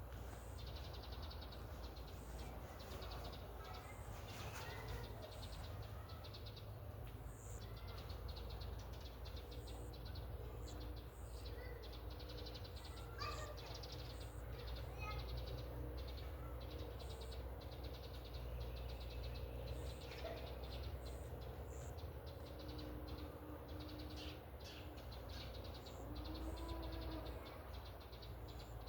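Outdoor rural ambience: scattered short bird chirps over a steady, fast insect trill, with a low rumble underneath.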